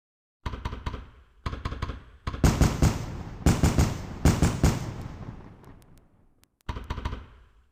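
Fireworks going off: bursts of rapid crackling pops, a few short ones first, then a dense, loud run of crackling in the middle with a thin high whistle over it that fades out, and one more short burst near the end.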